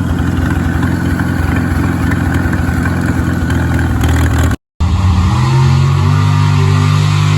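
Loud engine of a pulling vehicle running hard. It cuts out for a split second a little past halfway, then comes back as a steady drone with a clear pitch.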